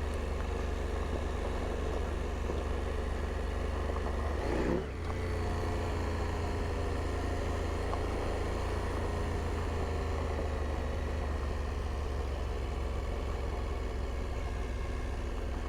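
2022 KTM 890 Adventure R's parallel-twin engine running steadily as the bike is ridden. The engine note dips and sweeps in pitch briefly about five seconds in, then settles again.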